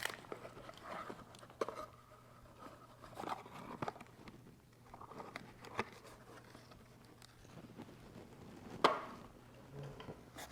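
Faint handling noises of hands working on a small-engine carburetor and its hoses: scattered light clicks and rustles, with one sharper click about nine seconds in, over a faint steady low hum.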